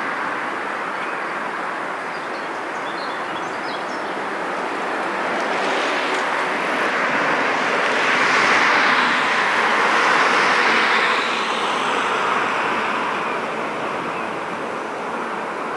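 Rushing noise of a passing vehicle, swelling to a peak about halfway through and fading again.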